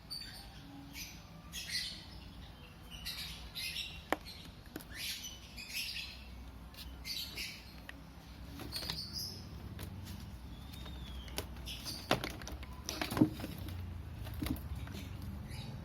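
Plastic case of an HP laptop charger being handled and worked apart: repeated short scraping and rustling with several sharp clicks, the loudest about thirteen seconds in.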